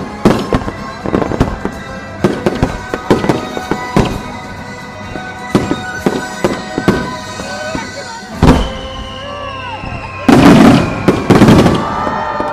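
Aerial fireworks shells bursting in quick succession with sharp bangs. One heavy boom comes about eight and a half seconds in, followed by a dense, loud volley of bursts near the end.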